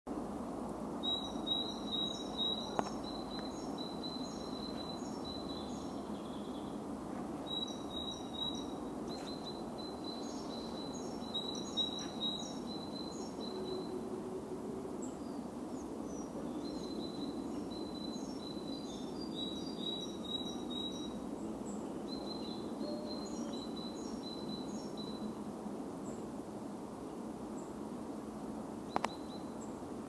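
Woodland songbird singing in repeated phrases of quick high chirping notes, with short pauses between phrases, over a steady low background rush. Two sharp clicks near the end.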